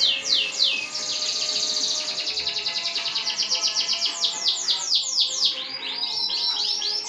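Domestic canary singing a long, intricate song: runs of quick down-slurred whistles at about four a second, alternating with rapid buzzing trills, changing phrase every second or two.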